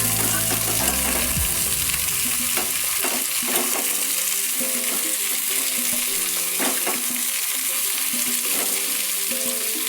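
Cauliflower florets with ginger and green chilli sizzling in hot oil in a kadai while being stirred, with scattered short scrapes of the spatula against the pan. Quiet background music runs underneath.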